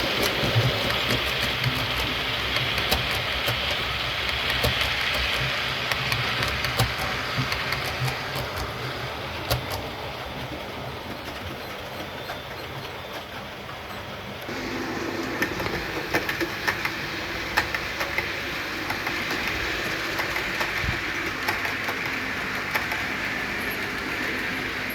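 OO gauge model train running on layout track: a steady running noise with frequent clicks of the wheels over rail joints. About halfway through the sound changes abruptly to a different pitch and balance.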